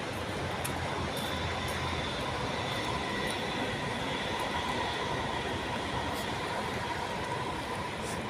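Steady mechanical drone with a faint high whine, the kind made by a vehicle or a large machine running.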